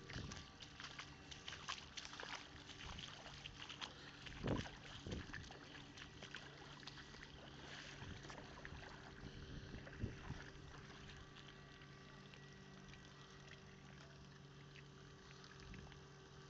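Water dripping and trickling, with many small drops ticking that thin out over the seconds, over a steady low hum. Two dull thumps, about four and a half and ten seconds in.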